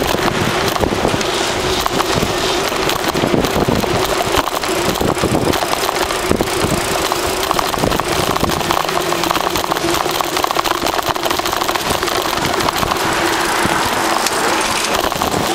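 Steady outdoor street noise full of small rattles and clicks, with a faint steady hum underneath.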